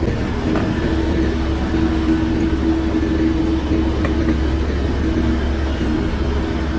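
Shantui crawler bulldozer's diesel engine running steadily, a deep rumble with a steady hum over it that drops out briefly a few times.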